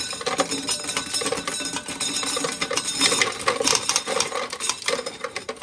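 Corn sheller stripping kernels from an ear of dried corn: a dense, continuous clatter of sharp clicks and rattles as the kernels are knocked off and fall.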